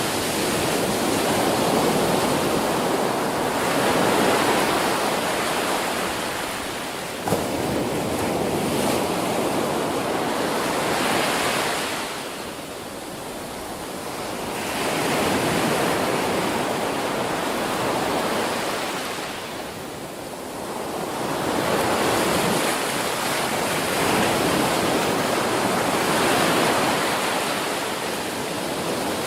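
Ocean waves breaking and washing up a beach, a steady rush of surf that swells and fades every several seconds. A short click about seven seconds in.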